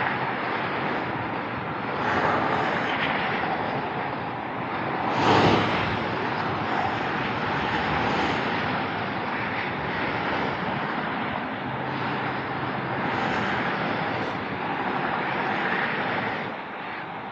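Autobahn traffic rushing past: overlapping swells of tyre and engine noise as cars and lorries go by, one vehicle passing especially loud about five seconds in.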